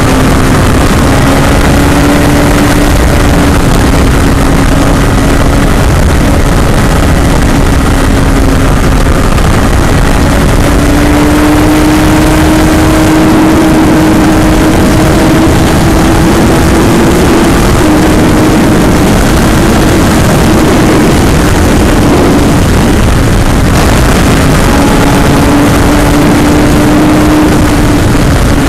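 2009 Suzuki Hayabusa's 1340 cc inline-four, fitted with a Yoshimura TRC exhaust, running hard at a nearly steady pitch that rises and dips slightly, under a loud constant rushing noise.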